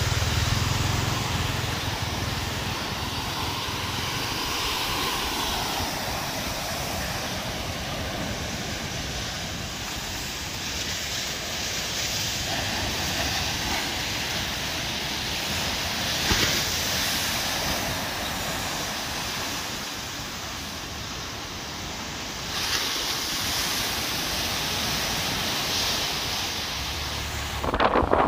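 Heavy surf breaking on a beach in a storm, with strong wind, as a steady wash of noise that swells and eases every few seconds.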